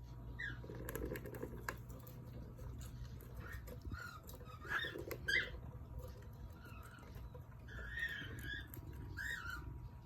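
Pet cockatiel giving short, scattered chirps, with light clicks between them.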